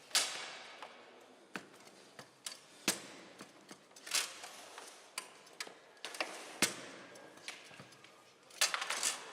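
Foosball play on a Bonzini table: the ball cracking off the players' feet and the table walls in sharp clacks at irregular intervals, with a quick rattle of several knocks near the end.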